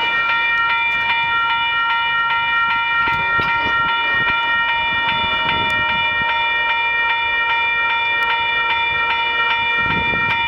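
Railroad crossing warning bell ringing steadily, struck about three times a second.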